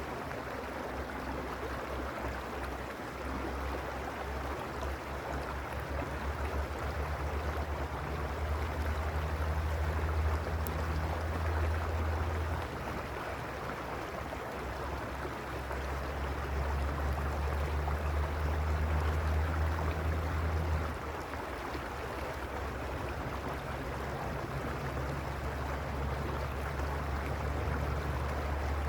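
Mountain creek water rushing steadily over stones. A deep low rumble underneath swells twice and drops off abruptly each time.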